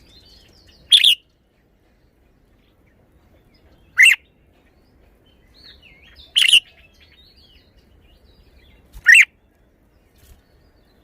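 Red-whiskered bulbul singing: four loud, short song phrases about two to three seconds apart, with softer twittering chirps between them.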